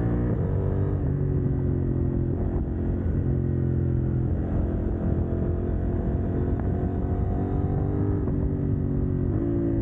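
CFMoto 800NK parallel-twin engine through a decat (catalytic converter removed) exhaust, riding under load. The revs drop with an upshift about half a second in, climb slowly, then drop again with another upshift near the end.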